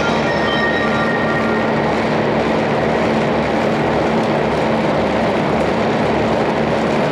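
Steady running noise of a 500 series Shinkansen heard from inside the passenger car at speed: an even rumble and rush with a constant low hum. A few faint tones fade out in the first second or so.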